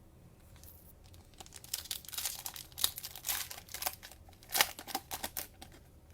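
Cellophane wrapper of a Mosaic basketball card cello pack crinkling and tearing as the pack is ripped open by hand. The rustling starts about a second in and is loudest near the end.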